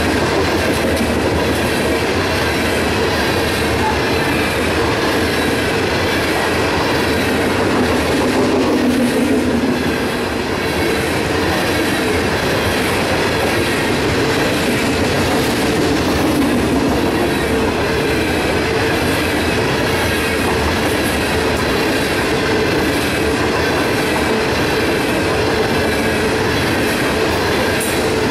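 Loaded coal hopper cars of a freight train rolling steadily past, steel wheels clicking over the rail joints in a regular rhythm.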